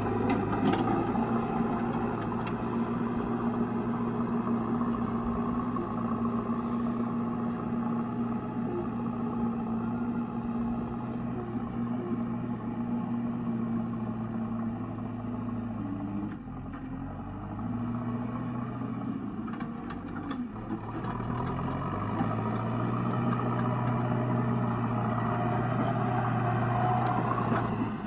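Heavy diesel engine running steadily; about halfway through it drops in level and its pitch wavers for several seconds, then it settles back to a steady run.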